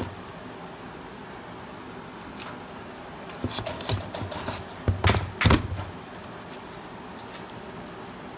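A short run of handling noises, scrapes and clicks, ending in two loud knocks about five seconds in, over a steady room hum.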